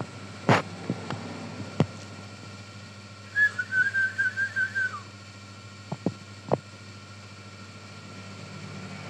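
Yellow-vented bulbul (trucukan) giving a quick run of about eight chattering whistled notes, about a second and a half long, ending on a falling note. A few sharp clicks come before and after it, over a steady low hum.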